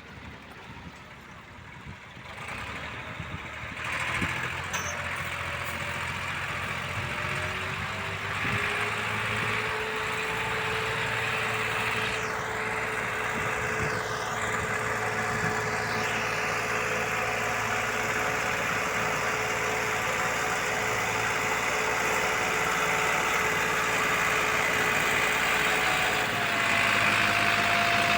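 Heavy machinery engine running steadily. It gets louder a few seconds in, with a steady whine over it that steps up in pitch near the end.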